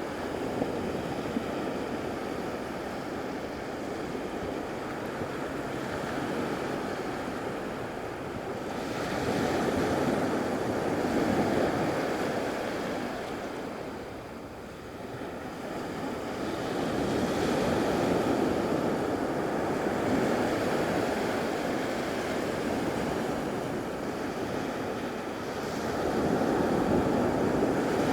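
Gulf surf washing up on a sandy beach, the rush of water swelling and fading three times as waves break.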